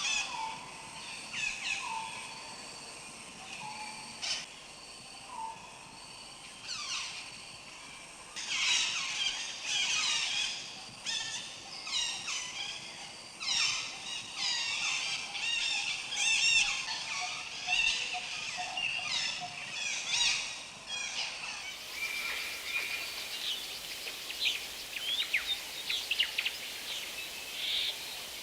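Many birds chirping, whistling and trilling in a dense chorus of quick calls. About two-thirds of the way through the sound changes abruptly to a steady hiss with fainter scattered chirps.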